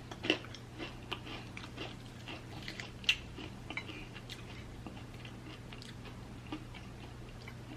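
Close-miked chewing of fried chicken wings: scattered small clicks and mouth sounds, most of them in the first few seconds and thinning out after, over a low steady hum.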